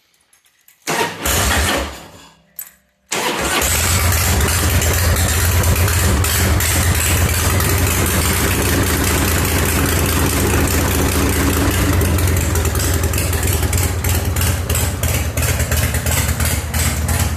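88 cubic inch Harley-Davidson Evolution air-cooled V-twin being started: a short burst of cranking about a second in that dies away, then it catches about three seconds in and runs steadily and loudly with an even pulse.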